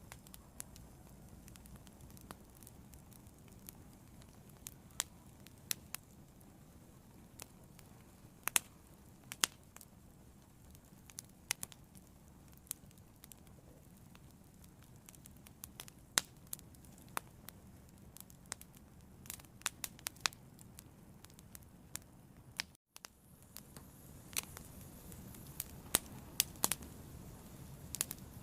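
Fire crackling: irregular sharp pops and snaps over a steady low hiss of burning. A split-second gap breaks the sound about two-thirds of the way through, and the burning is slightly louder after it.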